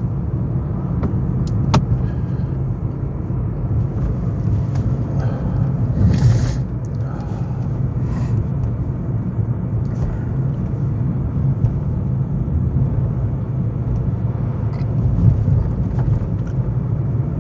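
Car cabin noise while driving: a steady low rumble of road and engine, with a few faint clicks and a brief rush of noise about six seconds in.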